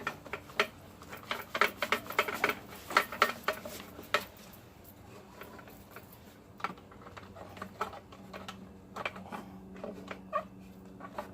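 Rapid clicks and light knocks of small plastic parts being handled as the old fuel filter and its fuel line are pulled out of a leaf blower's fuel tank, busiest in the first few seconds and then sparse and softer.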